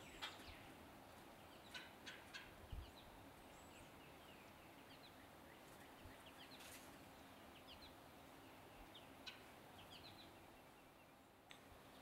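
Faint, scattered short wild bird chirps and calls over a quiet outdoor background, with a small cluster of sharper calls about two seconds in.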